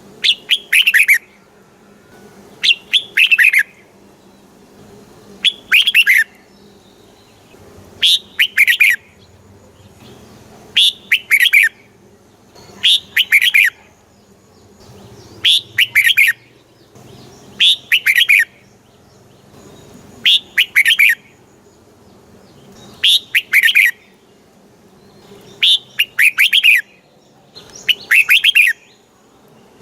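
Red-whiskered bulbul singing a short, loud phrase over and over, about once every two and a half seconds. Each phrase is a quick run of falling notes.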